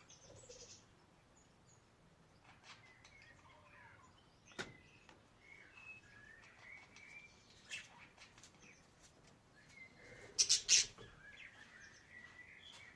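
Budgerigars chirping and warbling in short scattered phrases, with a sharp click about four and a half seconds in and a louder burst of chirps about ten and a half seconds in.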